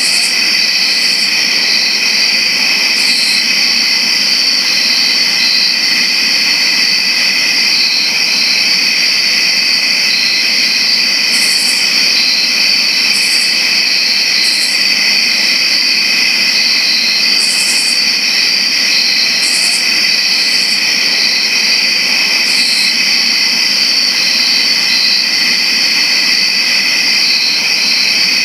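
A dense chorus of crickets chirping in a loud, unbroken, high-pitched drone. Short, higher chirps break in every few seconds, in clusters.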